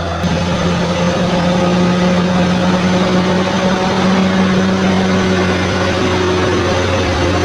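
Bulldozer's diesel engine running at a steady pitch, stepping up slightly in loudness a fraction of a second in.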